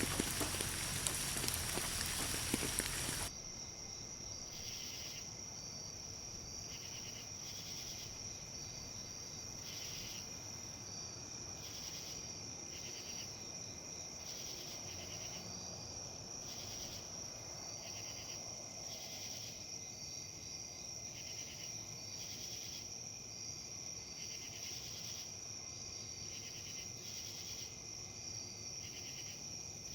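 Rain and wind noise for about three seconds, which cuts off suddenly. Then comes a steady high insect trill with crickets chirping in short, regular pulses.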